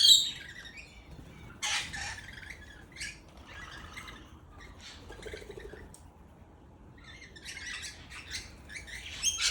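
Several wild birds chirping and calling in short high-pitched bursts, loudest at the start, with a brief lull past the middle before the calls pick up again.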